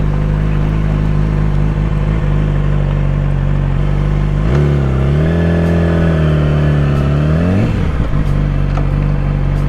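Motorcycle engine running at low speed; about halfway through it revs up, holds the higher note for a few seconds, then drops back to a steady lower note.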